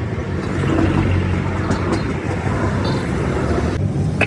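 Steady low rumble of running vehicle engines and road traffic, with a few faint clicks.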